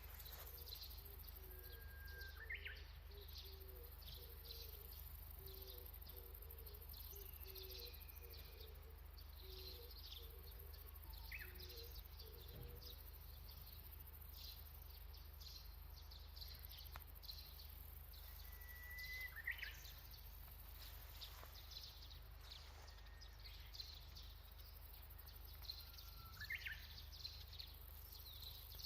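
Birds calling in the open air: four whistled calls that jump sharply upward in pitch, spread several seconds apart, among many faint quick high chirps, over a steady low hum.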